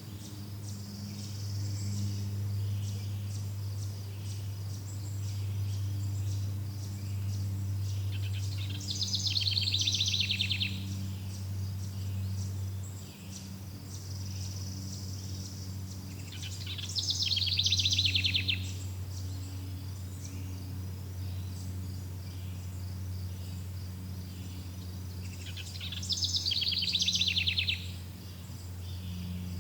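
Nature ambience: a bird gives a rapid, buzzy trill three times, about eight seconds apart, over a steady high chirring of insects and a low steady drone.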